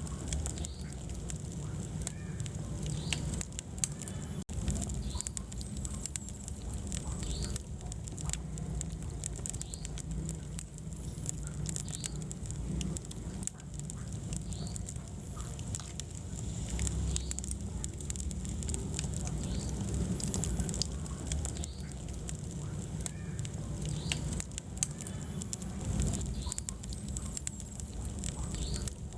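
Wood fire burning in a fireplace: a steady low rumble of flames with frequent small pops and crackles.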